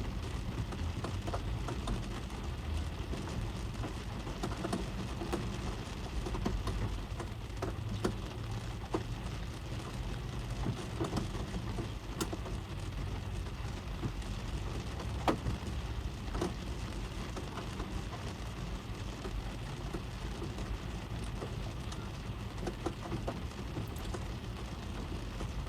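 Rain falling on a car, heard from inside the cabin: a steady patter with scattered sharper drop hits, one louder tap about fifteen seconds in.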